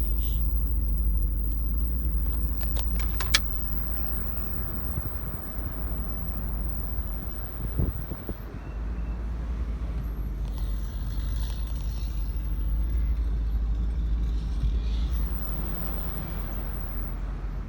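Car driving, with a steady low road-and-engine rumble heard from inside the cabin. A few sharp clicks sound about three seconds in.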